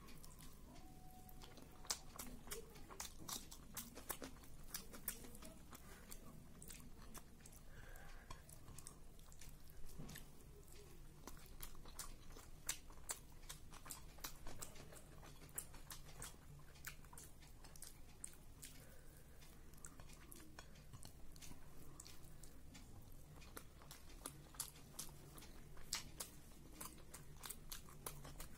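Close-up chewing and mouth sounds of someone eating rice with chicken curry and potato: many small, sharp wet clicks and smacks scattered irregularly, over a faint steady low hum.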